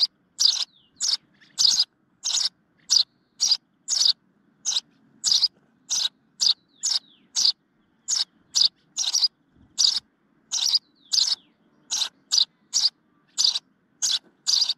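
A bird calling over and over: short, similar calls repeated evenly about twice a second.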